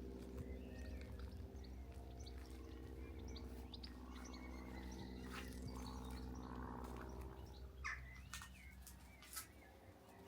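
Small songbirds chirping in many short calls, with a few sharp clicks scattered through the second half and a steady low hum underneath.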